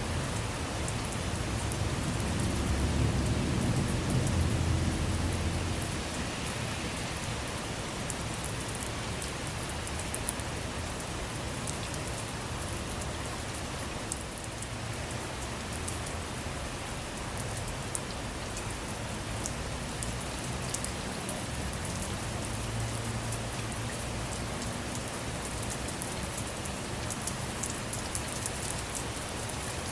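Steady rainfall with scattered individual drops ticking, and a low rumble of thunder swelling over the first few seconds before fading, with a fainter rumble later on.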